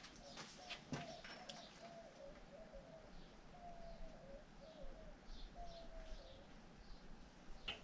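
Faint bird calls: a run of short cooing notes with a few higher chirps, over a few light clicks of metal parts being handled in the first second or so.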